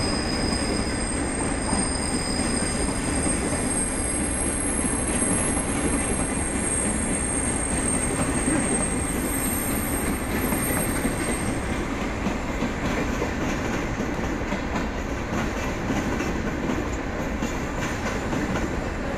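Unloaded Chiki 5500 long-rail flat wagons rolling past on steel rails with a steady rumble. A thin, high wheel squeal fades away a little over halfway through, and the rolling noise eases off slightly as the last wagon goes by.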